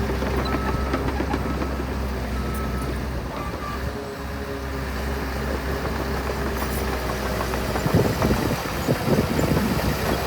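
Heavy diesel earthmoving machinery running steadily, with a low engine hum. About eight seconds in it turns rougher and more uneven, with sharp knocks.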